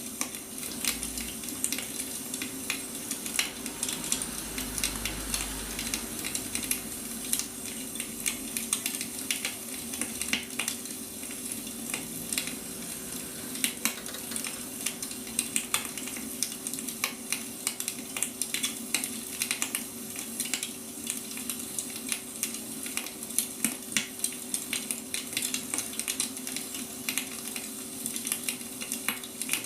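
Wood fire burning, crackling and popping irregularly over a steady hiss, with a faint steady hum underneath.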